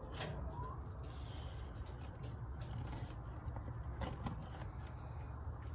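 Faint rustling and scattered light clicks as baby pigeons are handled in their nest, over a steady low hum.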